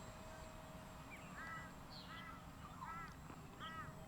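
A bird calling faintly, four short arched calls about three-quarters of a second apart, starting a little over a second in.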